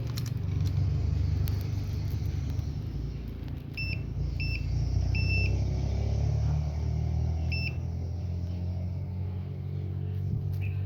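A steady low rumble, with four short, high electronic beeps in the middle, the third one longer: a digital clamp meter beeping as its selector is turned to measure resistance.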